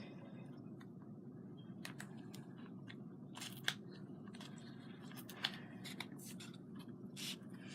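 Small handheld craft tools clicking and snipping, with light scratchy rustles of materials being handled; two sharper clicks stand out, about three and a half and five and a half seconds in.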